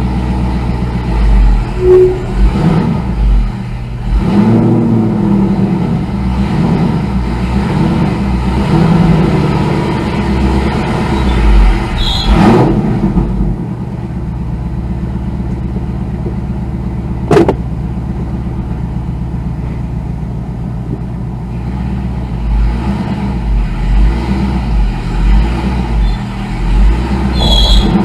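A car engine running, revving up in repeated swells as the stuck car is driven to get it free. A few sharp knocks cut in now and then.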